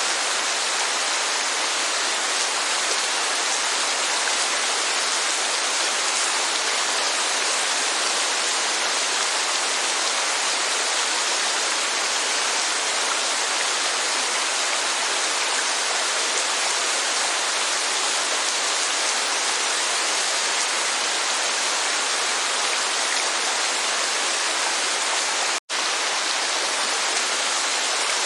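Steady rain and falling water: a dense, even hiss with no separate drops or rhythm, broken by a momentary dropout near the end.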